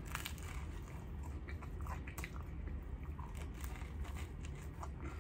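A man biting into and chewing a chopped cheese sandwich on a toasted roll close to the microphone: small crackles and wet chewing clicks, over a low steady hum.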